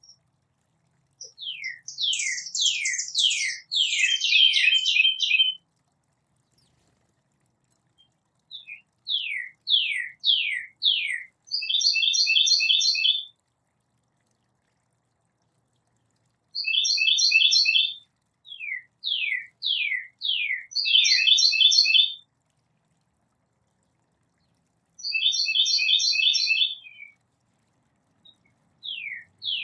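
Songbird singing in bouts: runs of four or five quick down-slurred whistles and fast buzzy trills, each bout one to four seconds long, with pauses of a few seconds between.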